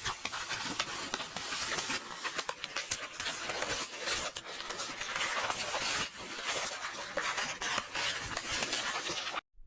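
Paper book pages rustling and turning: a dense, continuous crackle of many small rustles and clicks, which cuts out briefly near the end.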